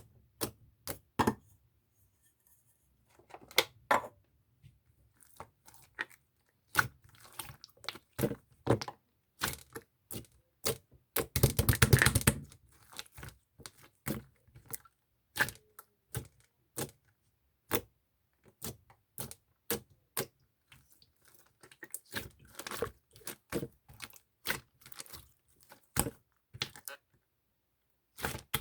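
Irregular close-up clicks and taps of small objects being handled, with a few short runs of rapid clicking, one about halfway through and another about three quarters through.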